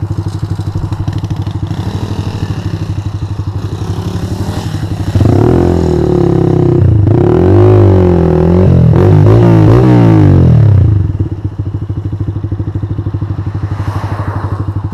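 Honda CG125 motorcycle's single-cylinder engine idling with an even putter, then from about five seconds in revved up and down hard several times, much louder, for about six seconds, before settling back to idle.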